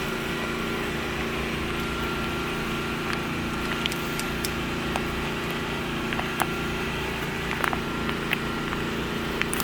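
A small engine running steadily with a low, even hum, while plastic ration packaging crinkles and clicks now and then as it is torn open.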